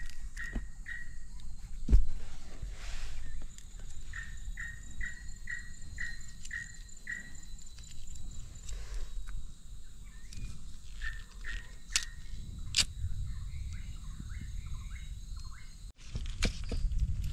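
A bird calling in bouts of short, evenly repeated notes, about three a second, over a low rumble. There is a sharp knock about two seconds in and a couple of sharp cracks later on.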